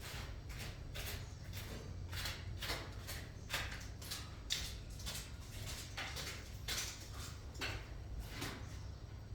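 A kitten mewing in a rapid series of short, insistent cries, about two a second, some of them falling in pitch.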